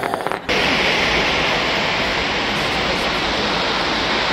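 Fireworks show: a few separate crackles, then about half a second in a sudden loud, steady hiss that goes on unbroken, as from a dense shower of crackling firework stars.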